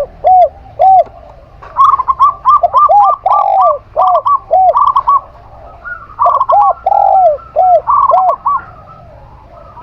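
A zebra dove and a spotted dove cooing at the same time. One voice gives a series of low, arched coos with a few longer drawn-out notes; the other gives quicker, higher coo notes in runs. Both pause briefly about a second in and fall quiet near the end.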